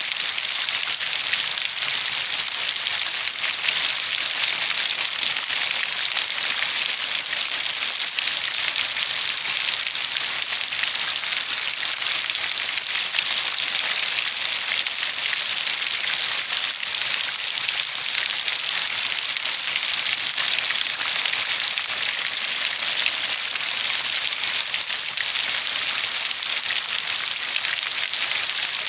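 Steady, even rain falling on a surface: a continuous dense hiss of drops without distinct thunder or gusts.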